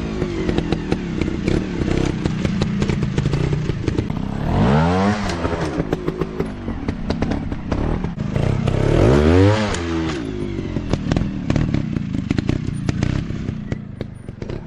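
Dirt bike engine running and revving up and back down twice, with clattering throughout.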